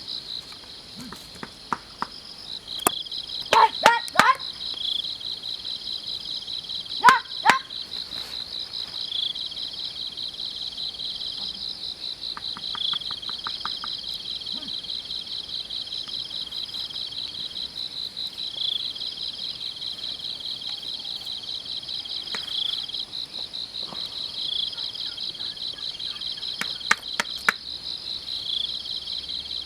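Insects chorusing: a steady, rapidly pulsing high trill. There are a few sharp clicks about 4 seconds in, about 7 seconds in and near the end.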